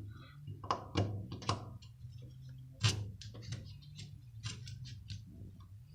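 Irregular metal clicks and taps of an Allen key being fitted into and turned in the bolt heads of a propane furnace gas valve, some in quick clusters, over a low steady hum.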